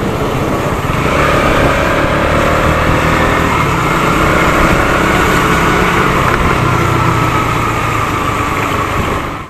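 Motorcycle engine running on the move, with wind and road noise. Its pitch climbs gently from about a second in, then holds fairly steady.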